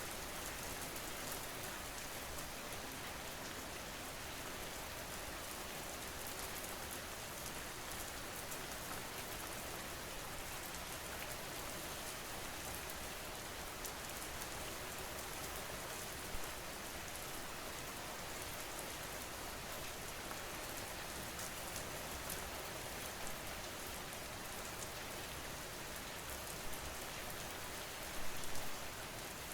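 Steady rain falling on a surface, an even hiss of drops, with a few brief louder spatters, the biggest near the end.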